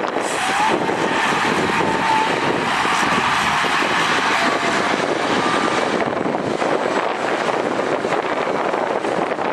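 Heavy diesel earthmoving machinery working, a steady dense engine and machine noise, with a faint high squeal in the first couple of seconds.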